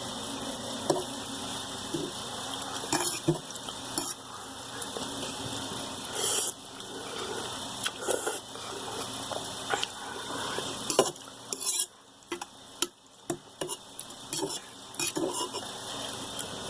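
Close-miked mukbang eating of instant ramen with egg: slurping and chewing noodles, with irregular clicks of a utensil against the bowl.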